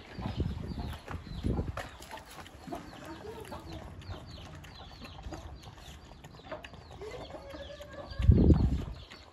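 Chickens clucking, with many quick, high chirps that fall in pitch, and a loud low muffled bump near the end.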